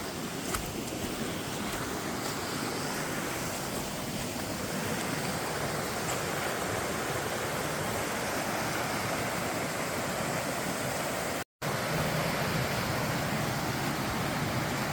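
Steady rush of a mountain creek's falling water, a continuous even hiss that cuts out for an instant about two-thirds of the way through.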